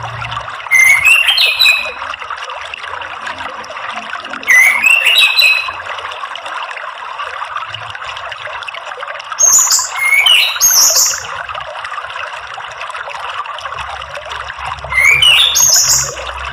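Orange-headed thrush calling four times, a short loud rising phrase about every four to five seconds, over a steady wash of running water.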